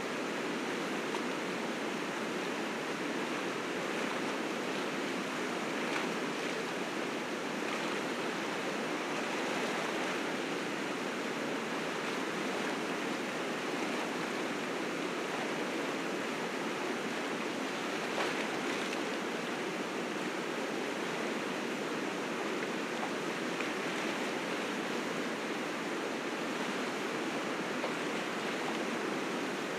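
River rapids rushing steadily, a dense unbroken roar of white water swollen with spring snowmelt.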